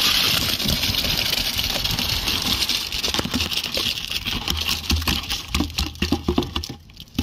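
A bucket of wet concrete being tipped into a column's formwork: a gritty pouring rush with many small knocks and scrapes, easing off after about three seconds. A low steady hum comes in about four and a half seconds in.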